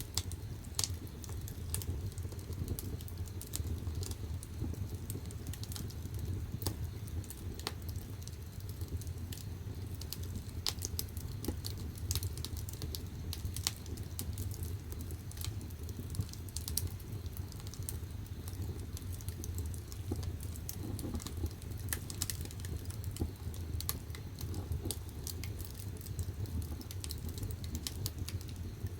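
Firewood burning in the firebox of a wood-fired bath: irregular crackles and pops over a steady low rumble of the fire.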